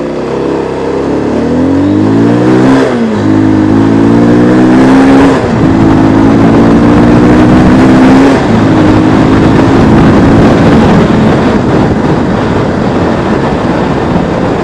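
Bajaj Pulsar 220F single-cylinder engine under hard acceleration, its note climbing in each gear. Three upshifts come about three, five and a half and eight seconds in, each dropping the revs before they climb again. After the last shift the note rises more slowly and blurs into a steady rush.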